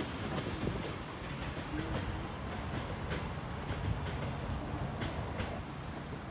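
Passenger train cars and caboose rolling away on the track, with a steady low rumble and a few scattered clicks of wheels over rail joints.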